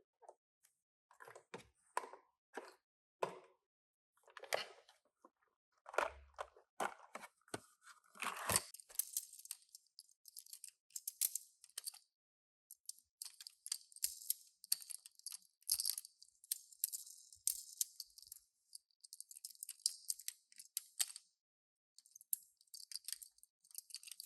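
Toy packaging being handled. For the first several seconds there are separate light clicks and taps. From about eight seconds in comes a long run of crinkling and tearing, broken by a couple of short pauses.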